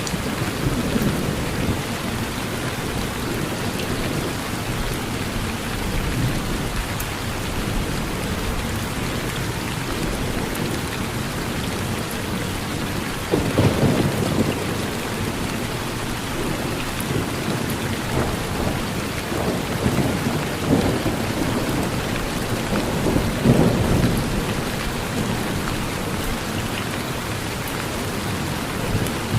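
Steady heavy rain with low rumbles of thunder. A sudden rumble comes just before halfway, and the loudest comes about three-quarters of the way through.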